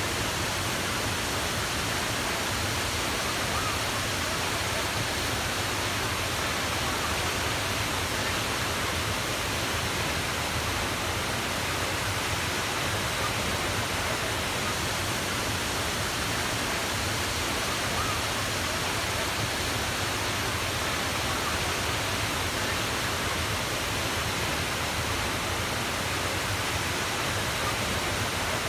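Steady, unbroken rushing of water, like a waterfall or fast stream, at an even level throughout.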